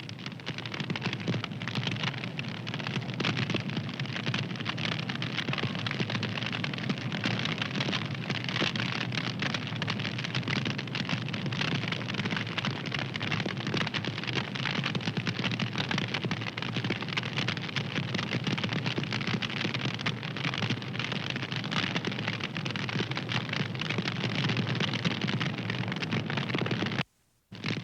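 Wood fire crackling, a dense steady mass of small pops and snaps. It cuts out to silence for about half a second near the end, then resumes.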